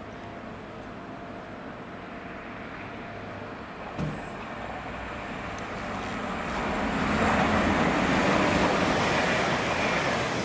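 Northern multiple-unit train approaching and passing close: a low, steady hum for the first few seconds, then the rumble of the train on the track swelling from about six seconds in to its loudest as it goes by. A single sharp knock about four seconds in.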